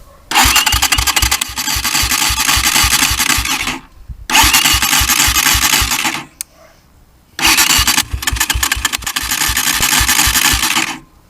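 Chinese motorcycle engine being started three times, each start a loud, rapid knocking clatter lasting two to three and a half seconds. The knock comes from chipped teeth on a gear under the engine's side cover.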